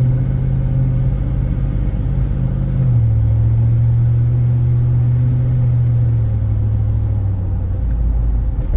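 Cammed 2006 Chevrolet SSR's 6.0-litre LS2 V8 heard from inside the cabin while driving. The engine note drops a step about three seconds in, then sinks slowly.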